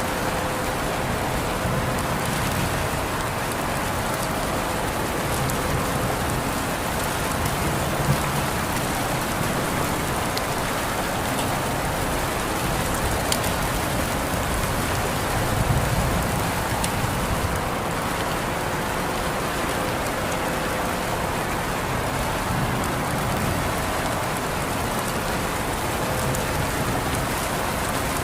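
Steady rain falling on surfaces, with scattered individual drops ticking out above the hiss and a brief low rumble about halfway through.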